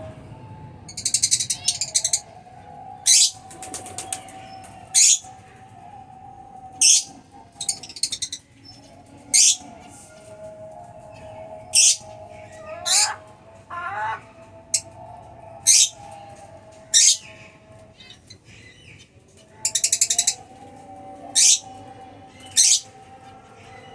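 Aviary lovebirds calling: sharp, high-pitched chirps repeated every second or two over steady lower chatter, with a couple of brief rapid rattling bursts.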